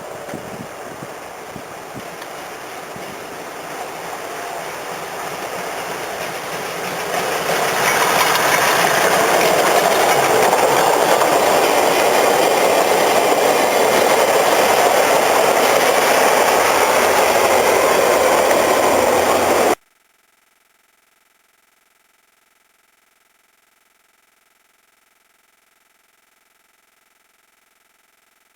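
Steam-hauled train running past, a rushing rail and exhaust noise that builds up and stays loud for several seconds. It cuts off abruptly about two-thirds of the way in, leaving near silence.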